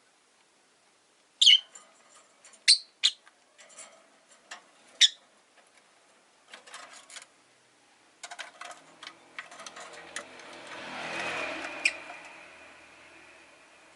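Rosy-faced lovebirds giving short, sharp chirps, several in the first five seconds and one more near the end, with scattered light clicks and ticks in between. From about ten seconds in, a broad rush of noise swells and then fades.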